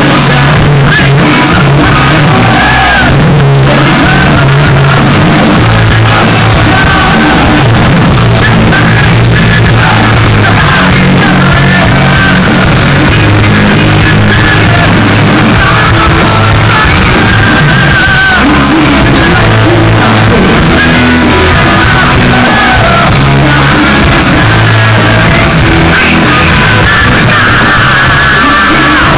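Live hard-rock band playing loud in a large hall, heavily distorted by the recording, with high, shouted singing over the band.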